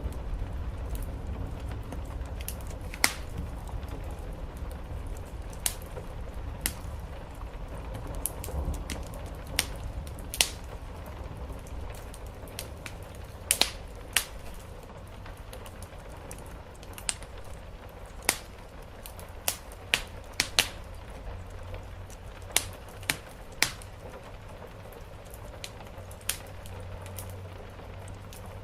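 Wood fire crackling in a fireplace, with irregular sharp pops and snaps, over a steady low rumble and the soft hiss of rain on the roof.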